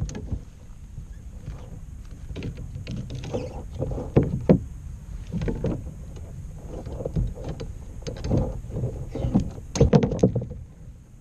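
Handling noises in a plastic kayak: irregular knocks, bumps and scrapes against the hull, loudest about four seconds in and again near ten seconds, over a low rumble of wind on the microphone.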